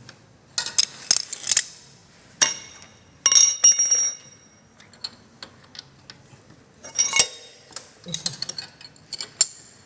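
Metal tools and parts clinking and ringing in several bunches of sharp clinks while a Yamaha Scorpio's rear monoshock is being refitted.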